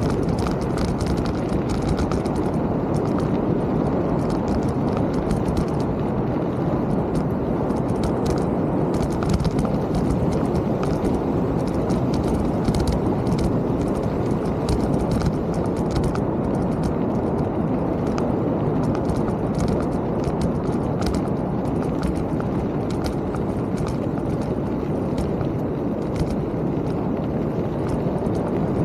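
Mountain bike ridden on a trail: a steady rushing rumble from wind and tyres, with many small clicks and rattles from the bike throughout.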